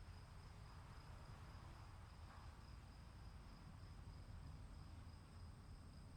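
Faint crickets chirring steadily in two high tones over a soft, even low rumble.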